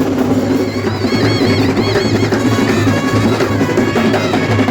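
Festival percussion ensemble playing loud, dense drumming, with a high, wavering wind-instrument melody over it in the first half.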